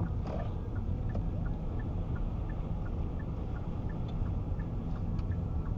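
Steady low road and engine rumble heard from inside a moving car, with a faint, evenly spaced ticking over it.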